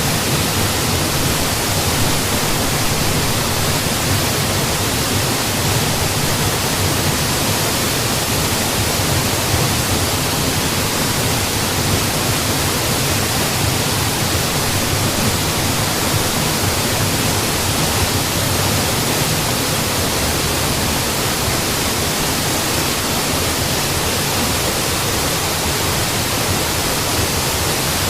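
Waterfall pouring in a steady, unbroken rush of falling water, full from low rumble to high hiss.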